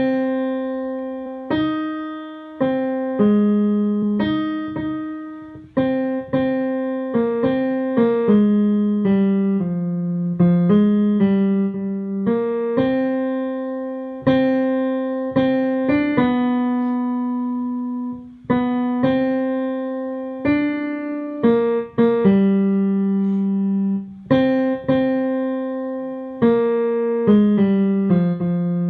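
Piano-toned keyboard playing a single choral tenor line, one struck note at a time at a moderate, even pace, some notes held and left to ring.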